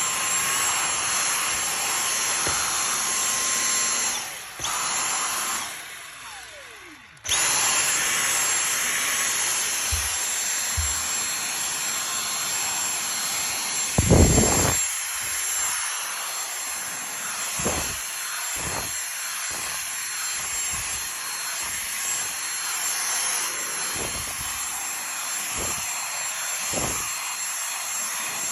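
Dyson cordless vacuum cleaner running with a steady high-pitched whine. It cuts out twice in the first seven seconds, winding down the second time, then starts again. Low thumps come through the rest, the loudest about fourteen seconds in.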